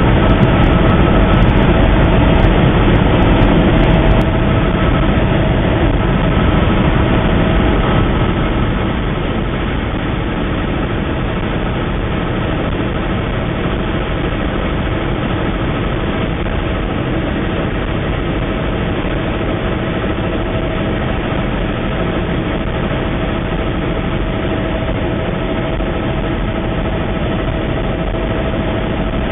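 Steady heavy engine drone with a constant whine that holds one pitch throughout; it eases slightly about eight seconds in.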